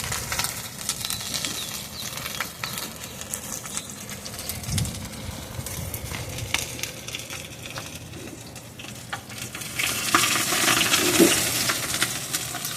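Fire burning in a small barbecue pit, crackling and sizzling with scattered pops as it burns into grease. About ten seconds in, a louder hissing rush comes up for a couple of seconds.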